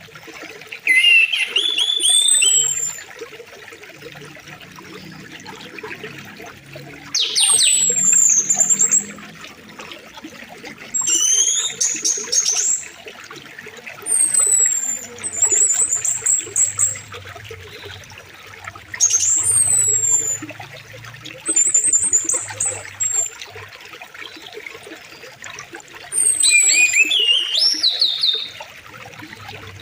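A songbird singing loud, high, whistled phrases over and over, each a second or two long with sweeping and warbling notes, about seven times. Under it runs a steady trickle of flowing stream water.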